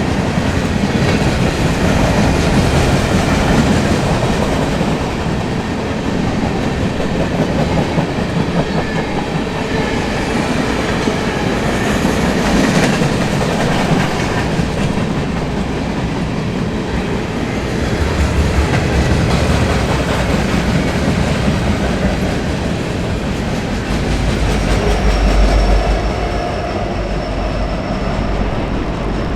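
Intermodal container cars of a freight train rolling past, wheels clattering over rail joints in a steady loud rumble, with a faint thin high tone in the last few seconds.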